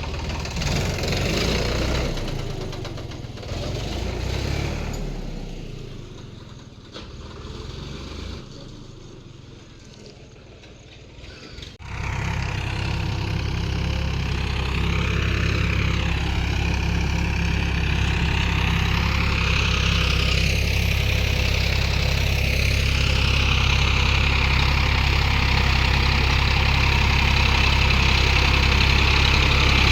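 Tractor diesel engine running. It fades low for several seconds, then after a sharp click it is loud and steady.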